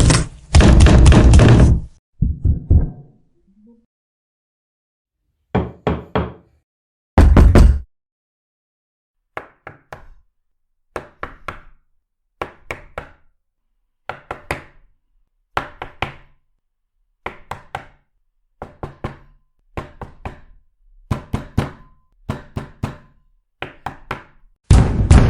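A run of door knocking sound effects. It opens with loud heavy banging on a door, then a few knocks and one heavy thud. After that come repeated sets of two or three quick knuckle raps, about every second and a half, ending in a loud bang.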